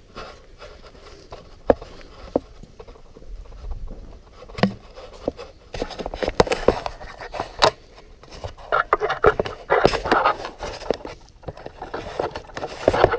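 Handling noises: scattered sharp clicks and knocks, becoming a busier run of scraping and rustling in the second half.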